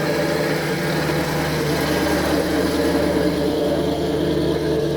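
Car engine idling steadily, with an even, unchanging note.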